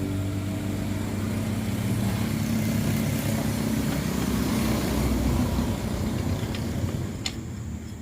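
An engine running steadily at a low pitch, growing fainter over the last couple of seconds, with a sharp click near the end.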